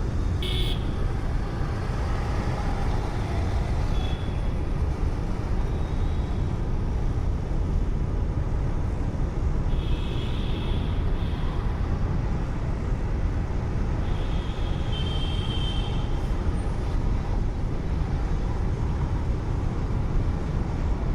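Steady road and engine rumble of a moving car picked up by a dashcam, with a few brief high-pitched tones from the traffic, once about halfway through and again a few seconds later.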